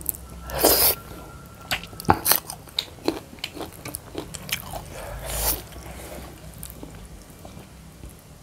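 Mouth sounds of people eating by hand: chewing and biting food, with many short wet clicks and smacks and a couple of louder smacks, about half a second in and again near five seconds.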